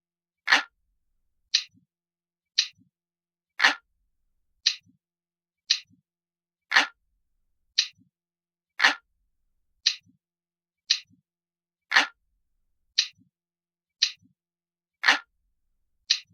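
Ticking clock sound effect: a crisp, even tick about once a second, with some ticks louder and deeper than the others.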